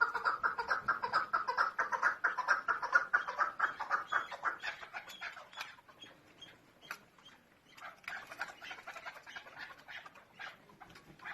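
Chukar partridge calling: a fast run of short, repeated notes for about the first four seconds, then fading, with a quieter run of calls starting again a little after halfway.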